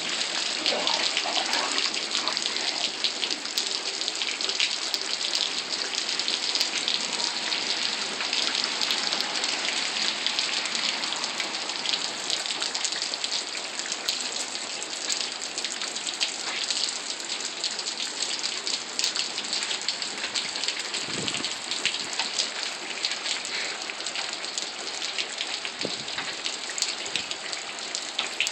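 Steady rain falling onto puddles and wet pavement: a dense, even hiss full of fine drop patter. A couple of soft low thumps come in the last third.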